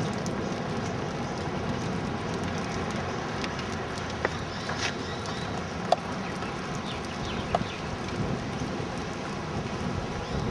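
Steady storm rain and wind, with a few sharp clicks scattered through, the loudest about six seconds in.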